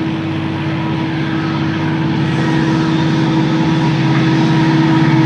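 Locomotive running with a steady, droning engine hum that slowly grows louder as it approaches.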